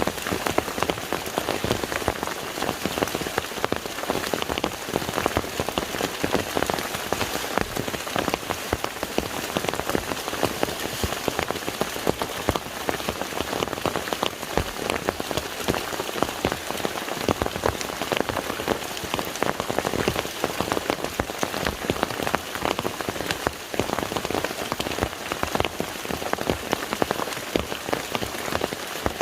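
Steady rain falling on a lake's water surface, a dense patter of many individual drops with no let-up.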